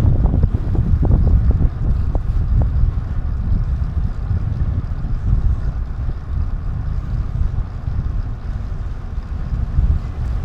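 Wind buffeting an action camera's microphone while riding, a steady low rush. A few short knocks or rattles sound in the first couple of seconds.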